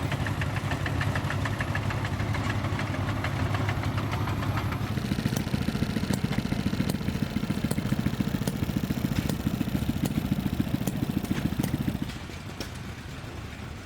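Vintage engines running. A steady engine hum changes abruptly at about five seconds to a rougher, rapidly pulsing engine with sharp clicks, which turns quieter near the end.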